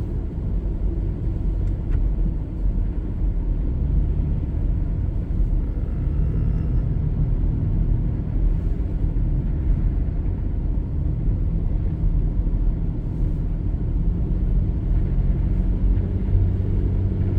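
A car driving, heard from inside the cabin: a steady low rumble of engine and tyre noise. The engine hum swells a little about six seconds in and again near the end.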